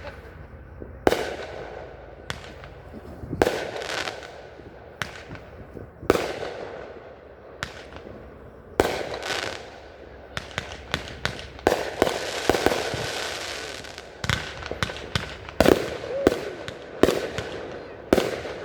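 Fireworks bursting one after another, sharp bangs about every second or two, each trailing off in a rolling echo, with a denser hissing, crackling stretch about twelve seconds in.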